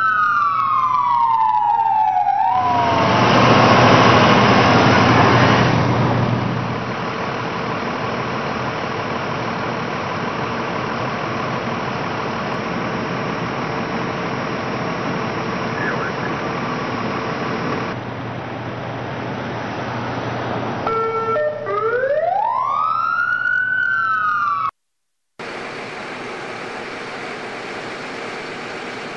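An emergency vehicle's siren wails, its pitch sweeping up and down, then gives way to a long steady rushing noise. The siren wails again near the end before the sound cuts out abruptly and a different steady noise follows.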